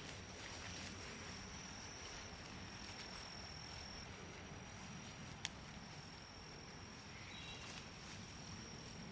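A steady high insect trill in the woods, with faint rustling through the undergrowth and one sharp tick about five and a half seconds in.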